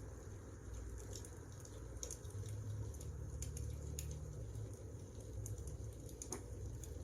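Wood fire crackling: irregular sharp snaps and pops over a low steady rumble of burning logs.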